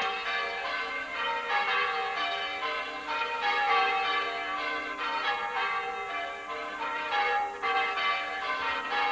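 Church bells being rung in changes: one bell struck after another in a steady run, their tones overlapping and ringing on.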